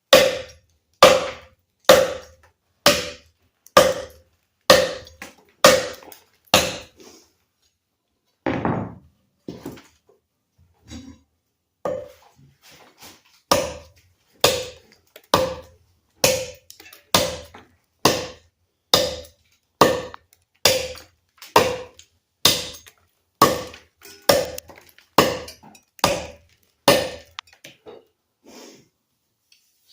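Repeated chopping blows of a TOPS El Chete knife biting into a thick piece of cherry wood, each a sharp thunk, roughly one or two a second. There is a pause of a few seconds about a third of the way in, and a few lighter taps near the end.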